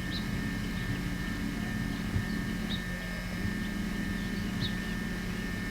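A few short, high bird chirps, one about every second or two, over a steady low hum.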